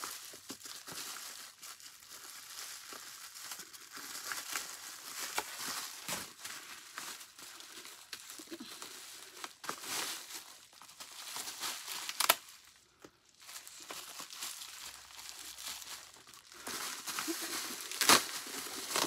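Packing paper crinkling and rustling as it is pulled off the vacuum cleaner's handle, with a few sharp clicks or knocks.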